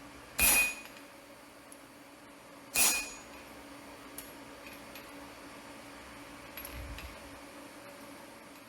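Two sharp ringing metal strikes about two and a half seconds apart, then a fainter clink with a low thud near the end, over a low steady hum.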